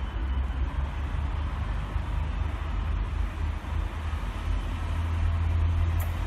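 Pacer diesel multiple unit drawing slowly into a station platform: a steady low engine rumble.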